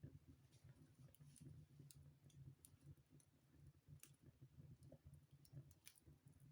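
Wood fire burning in a fireplace: faint, irregular crackles and snaps of burning logs.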